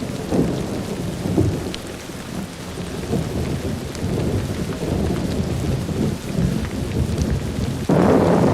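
Thunderstorm: thunder rumbling over steady rain, with a louder peal of thunder starting suddenly near the end.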